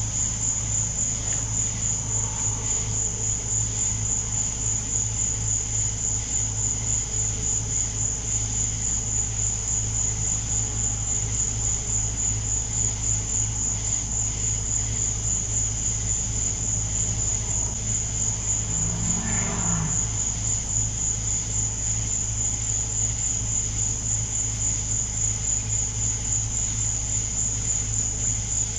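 A chorus of night insects, most likely crickets, trilling: one steady, high, rapidly pulsing trill that never stops.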